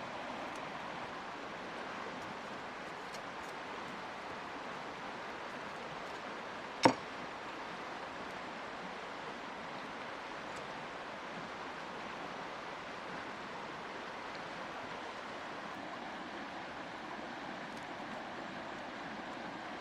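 Steady rush of flowing river water, with one sharp knock about seven seconds in.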